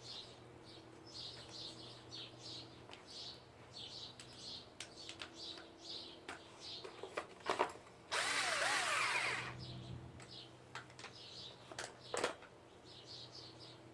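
A small electric motor whirs for about a second and a half, roughly eight seconds in, like a drill or power tool, amid repeated faint bird chirps and a few light clicks.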